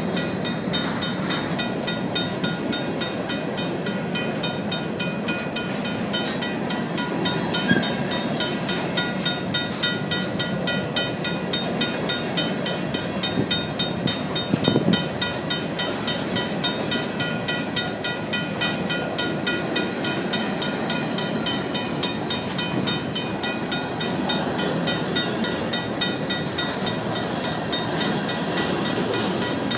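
Grain train's covered hopper cars rolling past close by, a steady rumble of wheels on rail with a few louder clacks. Over it a RACO mechanical crossing bell rings in quick, even strokes.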